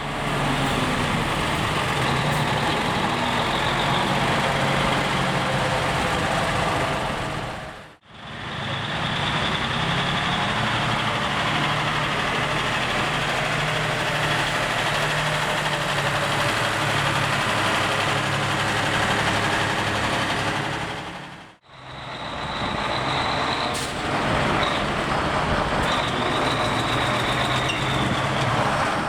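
Vintage Krupp truck engines running steadily, heard in three separate stretches that are cut apart abruptly about eight seconds in and again about twenty-one seconds in.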